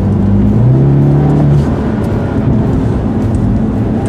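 Alpina B6's twin-turbo V8 heard from inside the cabin while driven hard on track: the engine note pulls strongly, then drops back about a second and a half in and carries on at a lower level.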